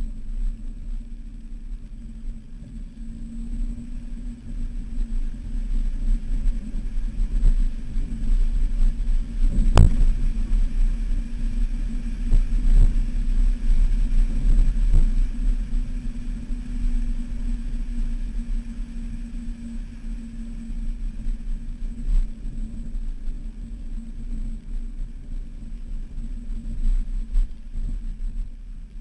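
Jeep engine running under load as it drives across sand dunes, with a steady low rumble that grows louder through the middle. There is a sharp knock about ten seconds in.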